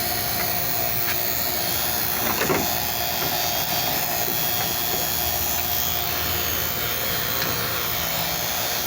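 A steady machine drone with a faint steady tone in it, unchanging throughout, and a brief light clatter about two and a half seconds in.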